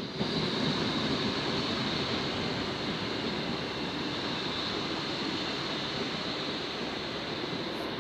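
Passenger train rolling slowly along the platform as it draws in: a steady rushing noise from the wheels and running gear that eases off slightly.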